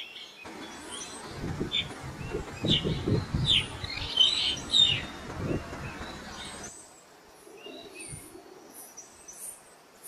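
Small songbirds chirping: short, quick down-slurred chirps over a steady noisy background, which cuts off suddenly about two-thirds of the way in, leaving fainter, higher chirps.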